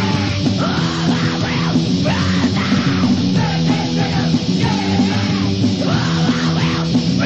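Loud punk song: distorted electric guitars and bass playing dense chords under shouted vocals.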